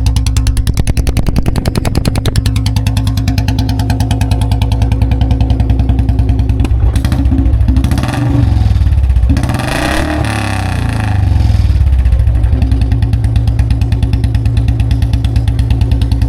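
Royal Enfield Bullet 350 single-cylinder engine idling through a free-flow bend pipe and a big-mouth long-bottle silencer, giving a steady thumping beat with some bass. About seven seconds in the throttle is blipped twice, the revs rising and falling, before it settles back to idle.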